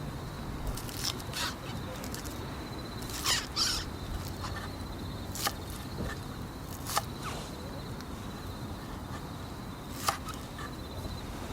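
Wood campfire crackling, with scattered sharp pops over a steady low background. The loudest is a pair of harsher cracks about a third of the way in.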